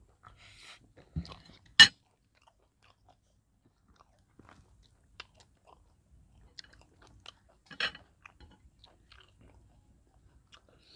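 Close-up eating sounds of fried mouse being torn and chewed: soft chewing with scattered small crunches, a single sharp crunch about two seconds in and another burst of crunching near eight seconds.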